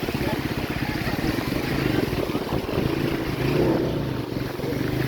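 A small engine running steadily, its fast even firing pulses loudest at the low end, with a rushing noise above it.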